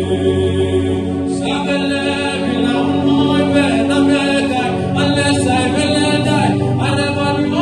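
Wordless vocal singing in long held notes over a steady low drone; a higher voice with wavering notes joins about a second in.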